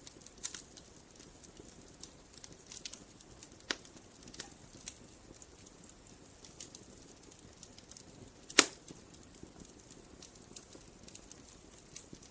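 Campfire crackling: burning wood snaps and pops at irregular intervals over a low hiss, with one loud pop about eight and a half seconds in.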